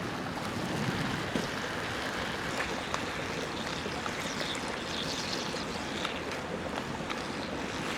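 Food sizzling in a pan over a campfire: a steady hiss with scattered faint crackles.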